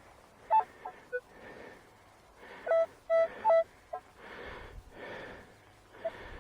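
Metal detector giving short, clipped beeps at a few different pitches as the soil of a freshly dug hole is scanned for a deep target, with a person breathing hard in the pauses.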